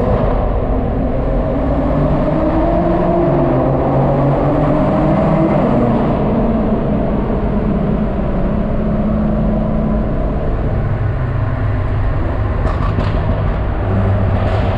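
Car engine running through an Invidia N1 dual titanium-tip aftermarket exhaust. The engine note rises over the first five seconds, then drops and settles to a steadier, lower note. A few short clicks come near the end.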